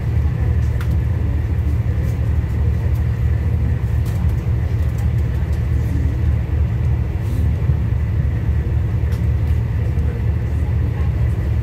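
A passenger train's running noise heard from inside the carriage: a steady low rumble, with faint scattered clicks.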